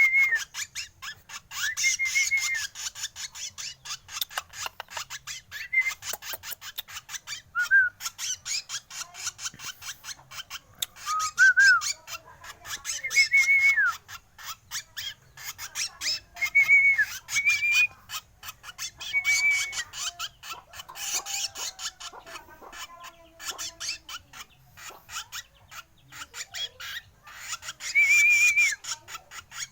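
Young drongo calling: short, wavering whistled notes repeated every one to three seconds over a fast, raspy chatter.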